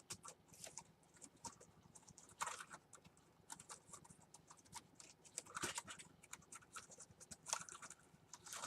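Faint typing on a Dell Inspiron 11 laptop's newly replaced keyboard: irregular key clicks with a few louder taps, the new keys being tried out.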